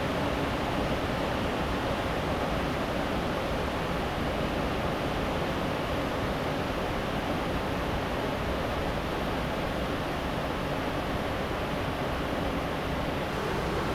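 Steady rush of flowing river water, an even unbroken noise with no distinct events.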